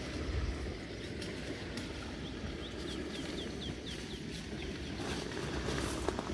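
A songbird calling a quick series of about a dozen short, high, falling chirps, about three a second, over a steady low outdoor rumble.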